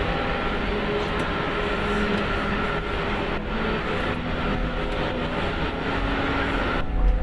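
Steady cabin noise inside the cockpit of an Airbus A380 taxiing after landing: engine and ventilation hiss with a few faint steady tones underneath. Near the end the sound changes suddenly to a deeper, louder rumble.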